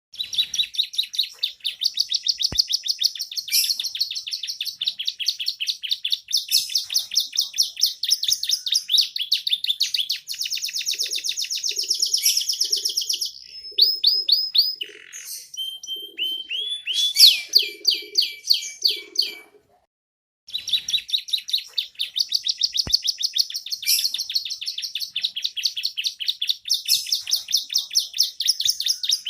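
Young domestic canary singing in long, rapid trills, its song filled with learned ciblek (bar-winged prinia) phrases. It breaks off for about a second about two-thirds of the way through, then resumes trilling.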